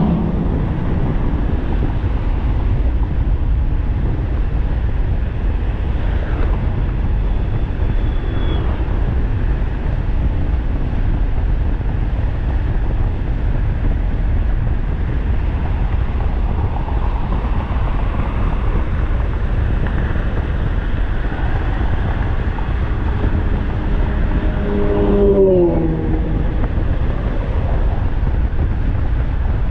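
Steady wind rush and road noise from riding a 1500-watt e-bike at speed. About 25 seconds in, a pitched sound briefly falls in pitch.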